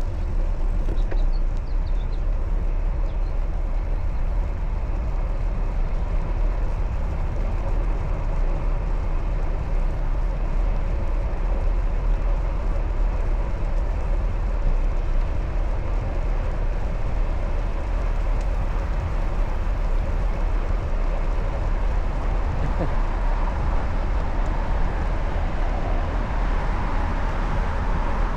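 Steady low rumble of wind buffeting the microphone, mixed with tyre and road noise from a bicycle being ridden. The noise grows a little brighter near the end.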